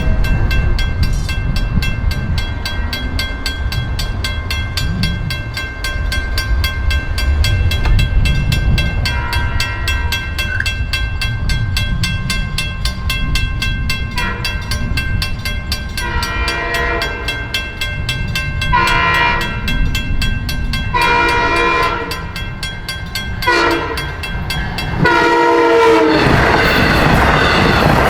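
A train rumbles through a level crossing while the crossing bell rings in a fast, steady pulse. The train's horn sounds a series of separate blasts from about a third of the way in. Near the end the train noise swells louder as it passes close.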